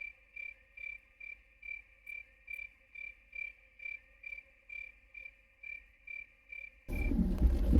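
Crickets chirping, a high, even chirp repeating about twice a second. It starts and stops abruptly, like a dropped-in sound effect.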